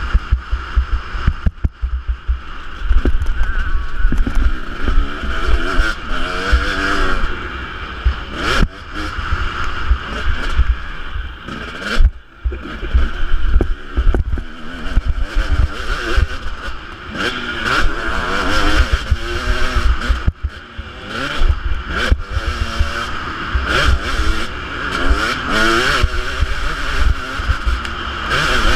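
Husqvarna 250 two-stroke motocross bike engine revving hard, its pitch climbing and falling again and again as the throttle opens and closes, with a deep low rumble throughout.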